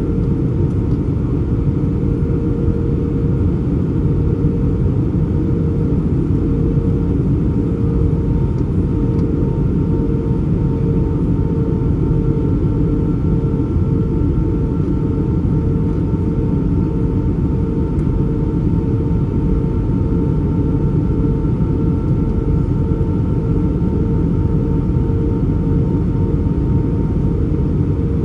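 Steady drone of an Airbus A320's engines inside the passenger cabin, with a tone that throbs evenly about once or twice a second.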